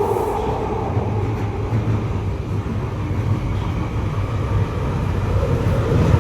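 A train running with a steady low rumble, growing a little louder near the end.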